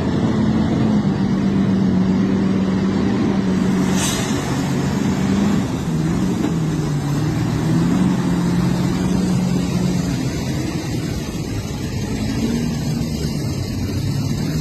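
An engine running steadily, its pitch drifting up and down a little, with a brief sharp sound about four seconds in.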